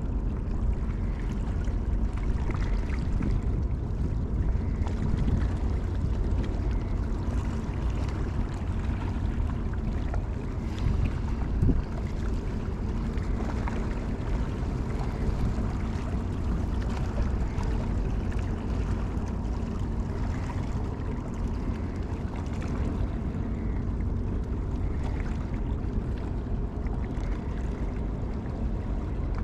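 Steady low rumble of wind on the microphone, with a few faint knocks.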